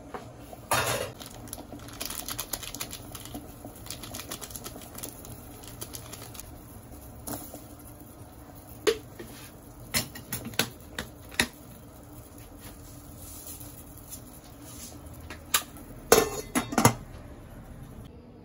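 Kitchen dishes and utensils clinking and knocking in scattered, irregular strikes. The loudest come about a second in, in a run in the middle, and in a cluster near the end.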